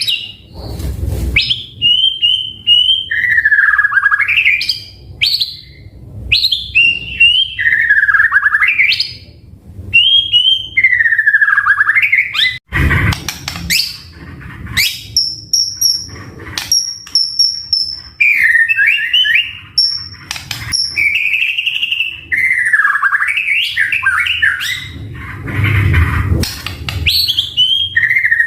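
White-rumped shama singing without pause: loud, repeated whistled phrases that swoop down and back up, with a run of short, high, steady whistles about halfway through. A few low thumps sound under the song, around a second in, about halfway, and near the end.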